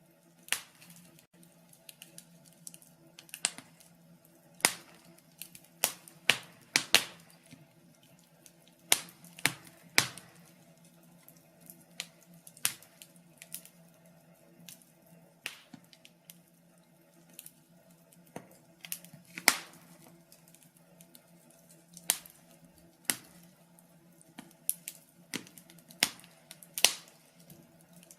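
Wood fire crackling and popping: sharp irregular snaps, several a second at times, over a faint steady low hum.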